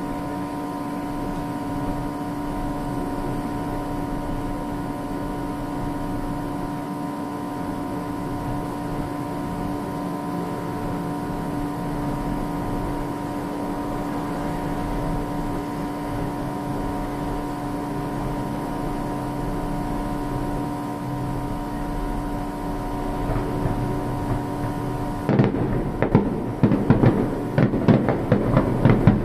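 A steady mechanical hum with a few constant tones. About 25 seconds in, fireworks start bursting and crackling in quick succession, much louder.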